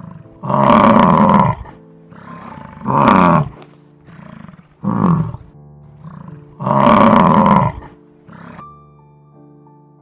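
An animal calling over background music: three loud calls of about a second each, with two shorter calls between them.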